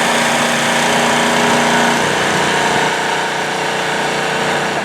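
Engine of an antique fire engine running steadily with a rough, rattling note. Its pitch steps up about two seconds in.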